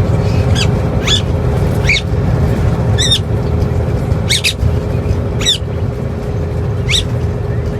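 A pet parrot giving about seven short, sharp high-pitched chirps spread over several seconds, over a loud steady low rumble.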